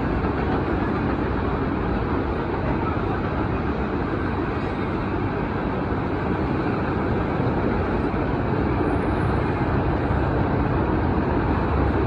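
Steady, even vehicle rumble with no horn or sharp sounds.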